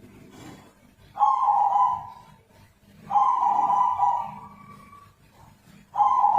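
Zebra dove (perkutut) giving its unusual, strange call rather than its normal cooing song: three drawn-out notes about two seconds apart, each starting suddenly and then fading away.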